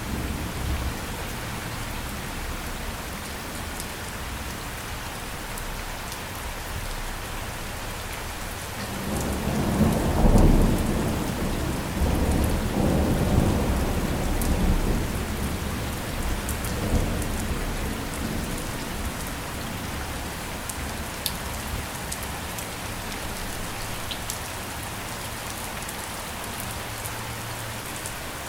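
Steady rain falling, with a roll of thunder that swells about nine seconds in, rumbles for several seconds and fades away.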